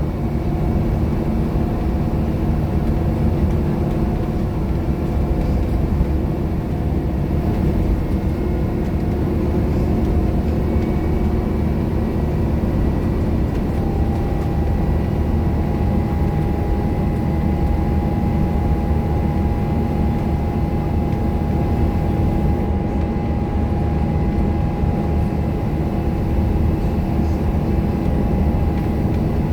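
Scania K230UB bus under way, its engine and drivetrain running steadily and working hard, with a steady high whine joining in about halfway through.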